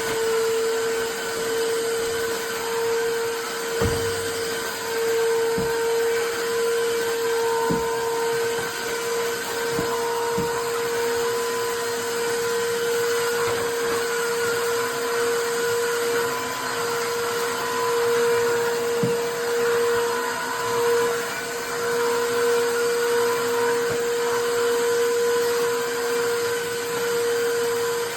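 Tineco iFLOOR 3 Breeze cordless wet-dry floor cleaner running steadily: a constant motor whine over rushing suction noise, with a few light knocks.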